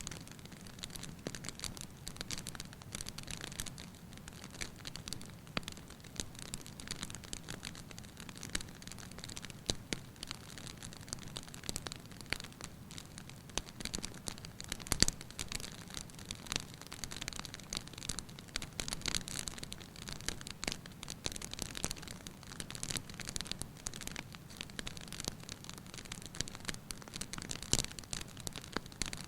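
Wood fire burning in a fireplace, crackling with many irregular small snaps and pops, and one louder pop about halfway through.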